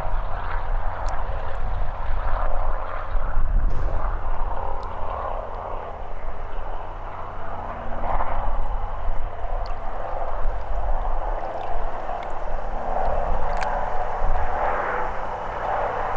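A steady, low engine-like drone, with a continuous rushing noise over it.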